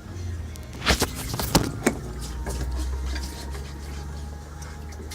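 Kitchen clatter: a handful of sharp knocks between about one and two seconds in, over a steady low hum.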